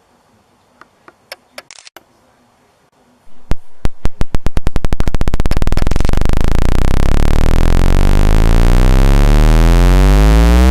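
Electronic synthesizer sound effect: after a few faint clicks, a loud pulsing starts about three seconds in, slow at first, then speeding up into a buzzing drone whose pitch keeps rising.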